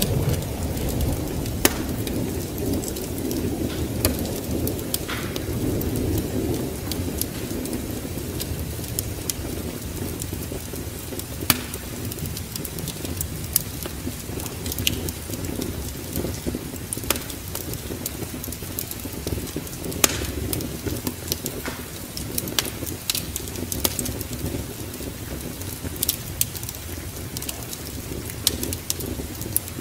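Wood fire crackling with scattered sharp pops over a steady low rumble of rain and storm, the rumble heavier in the first few seconds.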